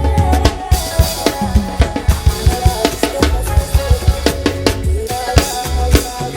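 Drum kit played with rapid kick and snare strokes over a recorded Afrobeat-style song with a bass line and melody.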